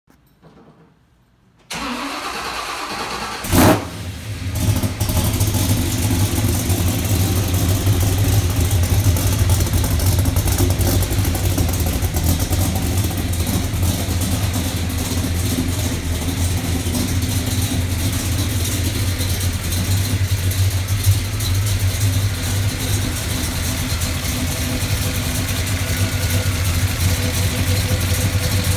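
Car engine cold-started: a couple of seconds of cranking, a loud burst as it catches, then it settles into a steady idle.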